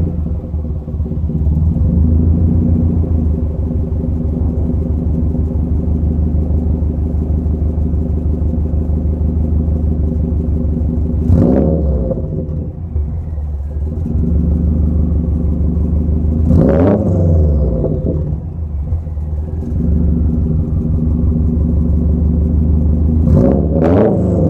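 2005 Subaru Legacy GT's turbocharged flat-four, with a catless up-pipe and downpipe and the muffler deleted, idling with a loud exhaust rumble. It is revved briefly three times, about halfway through, about two-thirds through and near the end, each time rising and dropping straight back to idle.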